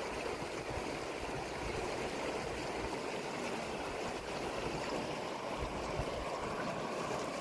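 Fast-flowing river water rushing steadily, with wind buffeting the microphone in low rumbles.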